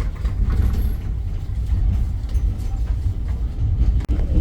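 Passenger train running with a steady low rumble and faint scattered ticks, with a brief dropout about four seconds in.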